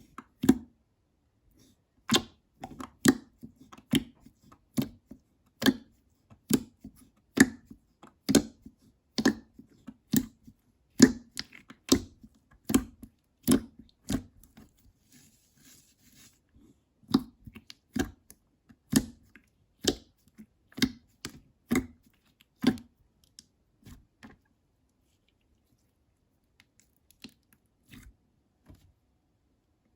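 Slime being squished and pressed by hand, giving sharp sticky pops about once a second, which thin out to a few faint ones in the last third.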